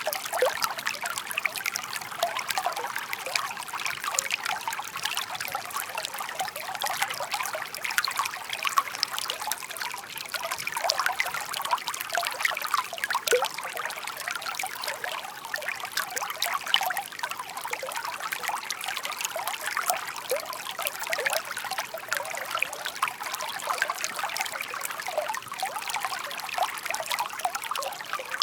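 A shallow stream babbling steadily, water trickling and splashing over stones with many small bright gurgles.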